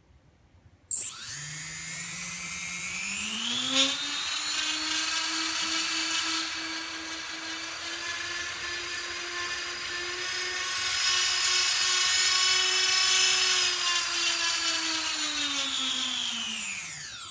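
Four brushless motors on a small quadcopter drone spinning up together: a whine that starts about a second in, rises in pitch over the next few seconds, holds steady with a brief tick near 4 s, then winds down in pitch near the end.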